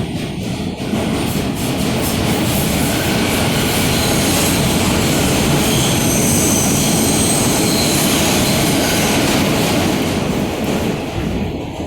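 R160A subway car running at speed between stations: a loud, steady rumble of wheels on rail with high-pitched wheel squeal. It builds about a second in and eases off near the end.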